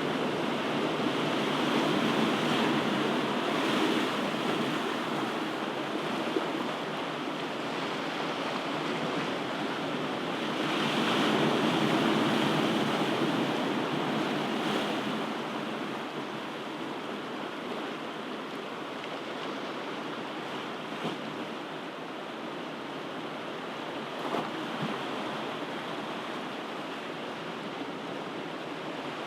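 Ocean waves washing on a shore in a continuous rushing surf. It swells louder a few seconds in and again about halfway, then settles into a steadier, quieter wash.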